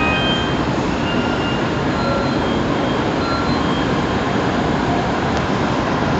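Tokaido Shinkansen train running, a steady, even rumble and rush of noise with faint brief high tones here and there.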